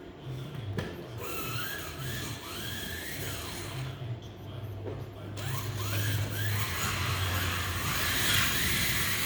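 Small electric slot car motors whining, their pitch rising and falling as they are run up and down. From about six seconds in they grow louder and denser.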